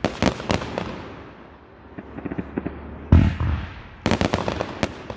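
Aerial firework shells bursting: one deep boom a little after three seconds in, and clusters of sharp crackling pops at the start and again at about four seconds.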